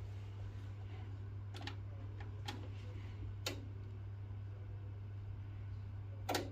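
A few separate sharp clicks over a steady low hum, the last click the loudest, near the end.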